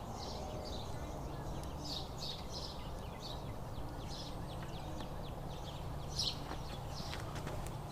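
Birds chirping repeatedly over a steady low background rumble, with a few faint clicks near the end.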